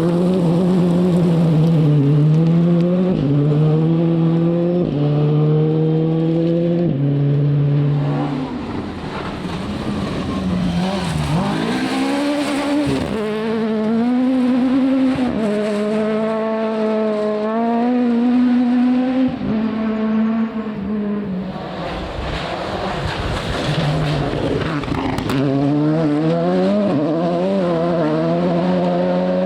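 Rally car engine at full throttle, its pitch rising and dropping again and again as it shifts gears. It eases off twice, then pulls hard once more near the end.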